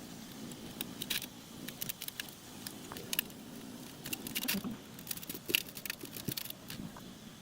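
Irregular light clicks and clinks, like small metal parts and hand tools being handled, over a low background rumble.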